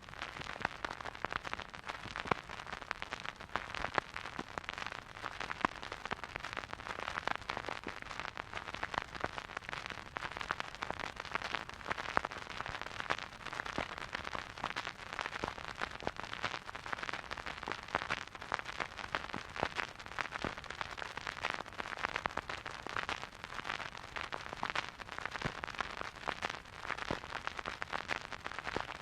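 Vinyl record surface noise from a record player playing a silent groove: a steady hiss with dense, irregular crackles and pops from a dusty record.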